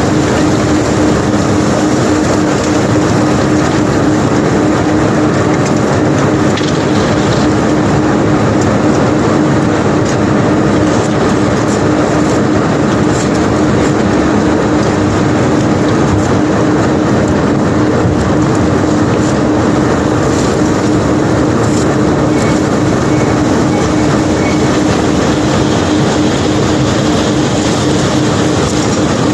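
Unloading machinery running steadily with a constant hum, under a continuous rattle of cobblestones being moved off the barge.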